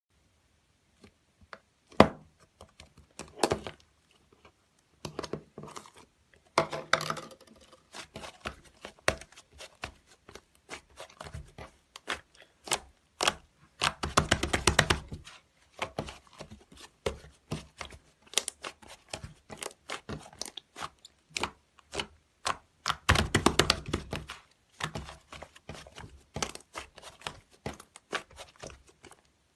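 Close-up handling sounds in a small room: scattered sharp clicks and taps with some crinkling, and two spells of fast ticking, one about halfway through and one some eight seconds later.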